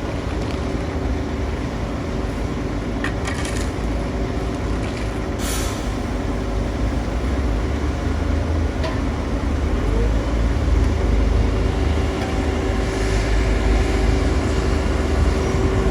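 Heavy diesel construction machinery running steadily, a deep engine rumble with a constant hum. There are short hisses about three and a half and five and a half seconds in, and it gets a little louder after about ten seconds.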